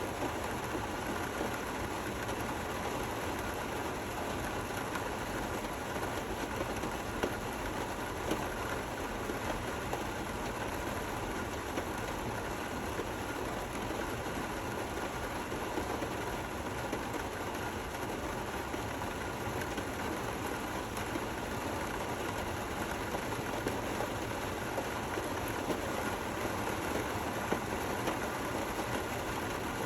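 Steady rain: an even hiss with scattered louder drop hits.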